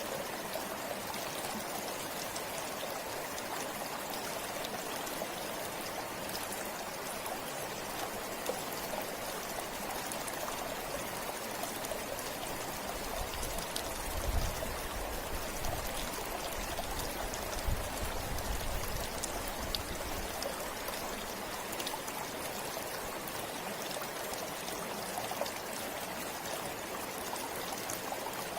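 River water flowing steadily over rocks, a continuous rushing with small splashes through it. Roughly midway, a low rumble comes in for several seconds.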